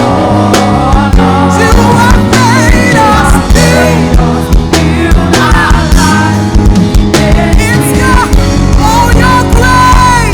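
A live worship band playing full out, with drum kit and a wavering melodic lead over a steady beat.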